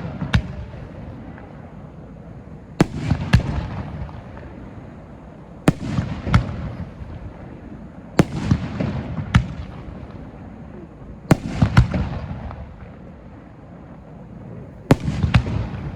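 Small aerial firework shells bursting at close range: groups of two or three sharp bangs about every three seconds, each group trailing off in a low rumble.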